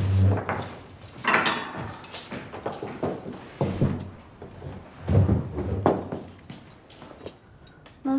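Plates and cutlery clinking and knocking: a string of separate short clicks and clatters.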